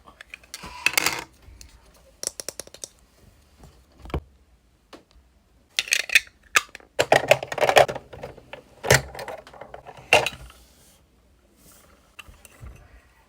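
Small plastic toy parts and packaging being handled. Scattered clicks and taps come with a quick run of clicks about two seconds in and several rustling bursts in the middle.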